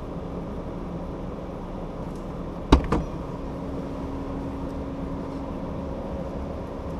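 An off-road 4x4's engine idling steadily with a low hum. About two and a half seconds in, a vehicle door slams shut with a sharp double knock.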